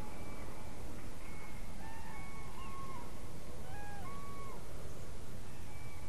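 Birds giving short whistled call notes at varying pitches, scattered irregularly and sometimes overlapping, over a steady low rumble.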